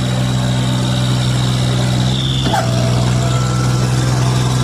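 Tractor engine running steadily at an even pitch. About halfway through, a brief, short call rises and falls over it.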